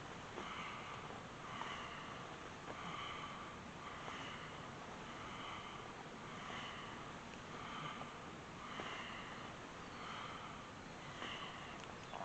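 Rhythmic, faint breathing through the nose: short, sharp sniffing breaths repeated steadily about one and a half times a second, as in a Kundalini yoga breathing exercise.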